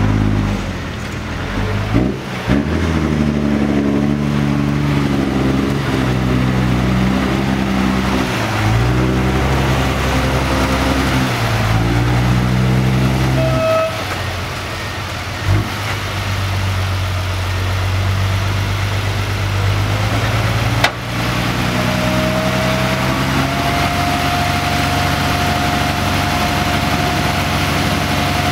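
Six-wheel dump truck's engine running, its pitch stepping up and down every few seconds. There is a sharp click about 21 seconds in, and a thin whine rises and then holds steady near the end.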